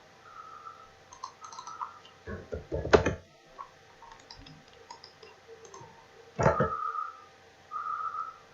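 Computer mouse clicks and keyboard keystrokes: a quick cluster of clicks about two to three seconds in, the loudest near three seconds, and another short cluster about six and a half seconds in.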